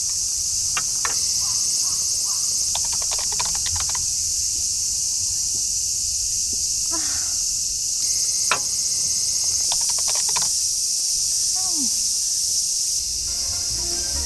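Steady high-pitched chorus of summer insects chirring, with a few scattered sharp clicks.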